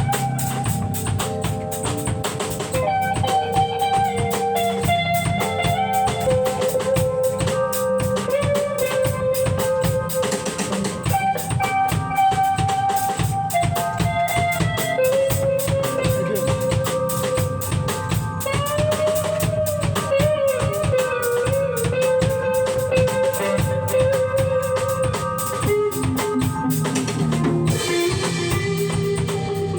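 Instrumental band music without singing: a drum kit keeps a steady beat under a lead melody that holds and bends its notes.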